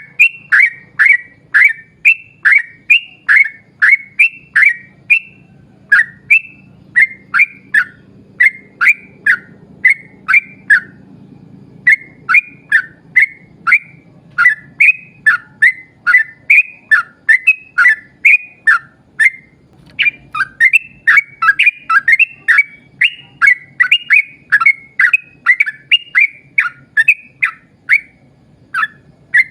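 Trucukan (yellow-vented bulbul) singing a long unbroken run of short, sharp phrases, two or three a second, with a few brief pauses. This is the long rapid-fire song that keepers call 'ropel panjang'.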